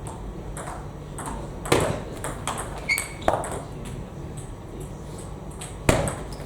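Table tennis ball clicking off bats and table during play: a string of sharp, irregularly spaced ticks, with the loudest hits about a second and a half in, a little past three seconds, and near the end.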